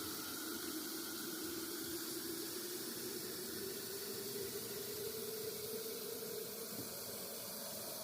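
Water from a garden hose running into a container, a steady rush whose pitch rises slowly as the container fills.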